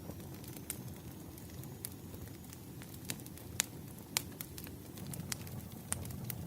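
Campfire crackling: irregular sharp pops and snaps over a low, steady rumble of the burning fire.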